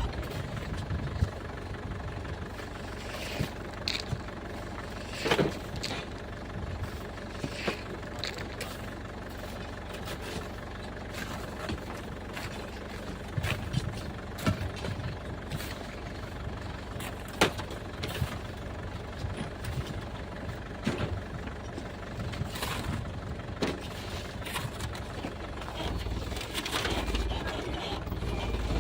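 Truck engine idling steadily, with scattered sharp knocks and scrapes over it.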